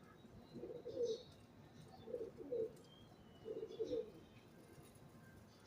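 A pigeon cooing: three low, two-part coos about a second and a half apart, with a few faint high chirps from small birds in between.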